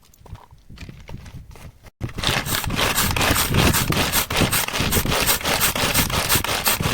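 Quiet, faint sounds, then after a sudden cut about two seconds in, loud rhythmic scraping at about four to five strokes a second.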